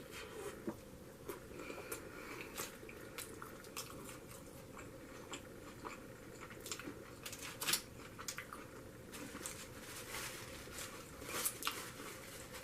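Close-up eating sounds of a person chewing a Five Guys burger: wet mouth clicks and smacks at an irregular pace, two louder ones in the second half.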